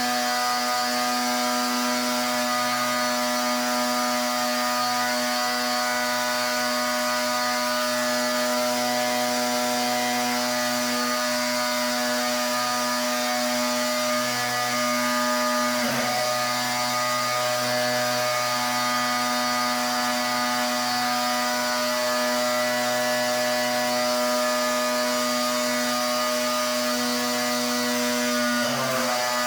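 Pressure washer running steadily: a constant motor-and-pump drone under the hiss of the water spray, with a brief break about halfway through.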